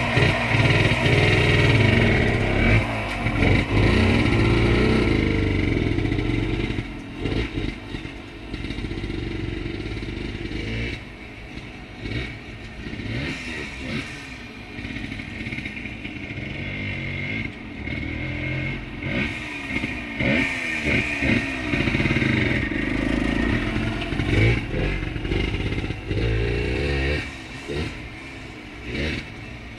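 1978 Yamaha DT100's single-cylinder two-stroke engine running under way, its pitch rising and falling with the throttle. It is loudest for the first several seconds, then settles lower with repeated short revs.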